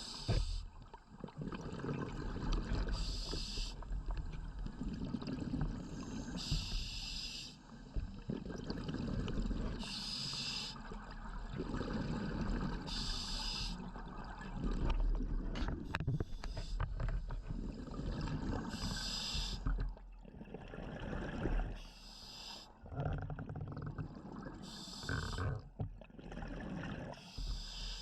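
Scuba diver breathing underwater through a regulator. A sharp hiss on each inhalation, roughly every three seconds, alternates with the rumbling gurgle of exhaled bubbles.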